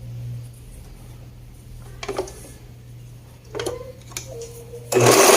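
Sewing machine with its motor humming steadily, a couple of short handling sounds, then a loud burst of stitching about five seconds in as a blouse side seam is sewn.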